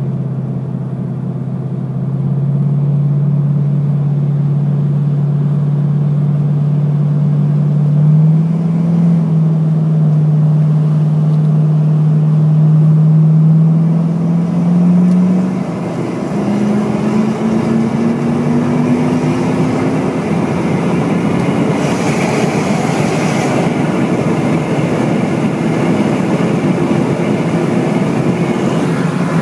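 Jeep Grand Cherokee 4.7 V8 exhaust through a Magnaflow muffler and cutout, its note climbing slowly in pitch as the vehicle accelerates. About halfway through it drops back and climbs again, then gives way to a broader rushing sound of the moving vehicle.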